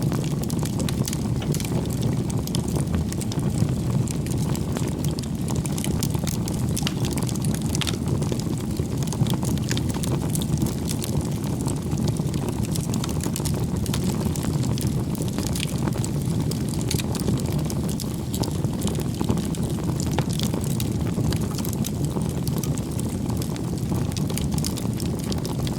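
Wood campfire burning: a steady low rush of flames with frequent small crackles and pops from the burning logs.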